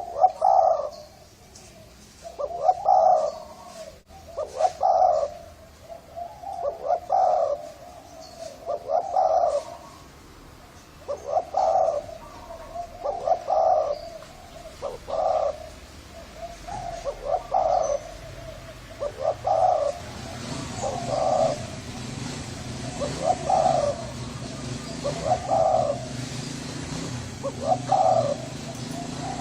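Spotted dove cooing, one phrase about every two seconds. A low steady hum joins about two-thirds of the way through.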